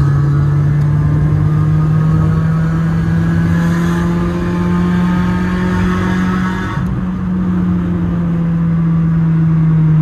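Suzuki Cultus engine heard from inside the cabin, driving through an underpass. Its note rises slowly under acceleration, dips briefly about seven seconds in, then runs on steadily.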